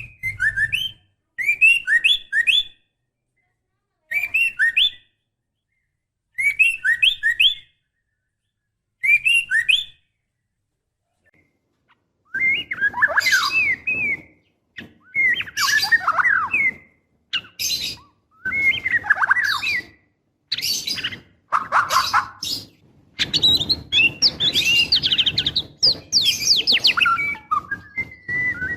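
Female white-rumped shama calling for a male in breeding condition: short, rapid chattering phrases every two to three seconds, then from about halfway longer, louder and more varied phrases that come almost without pause.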